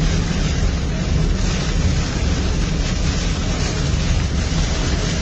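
Heavy rain falling: a steady rushing noise with a strong low rumble underneath.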